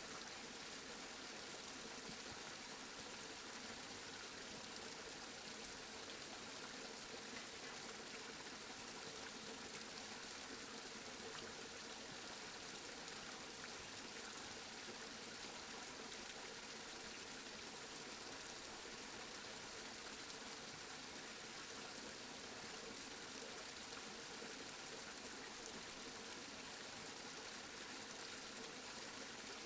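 Steady rain falling, an even hiss of drops with no thunder or breaks.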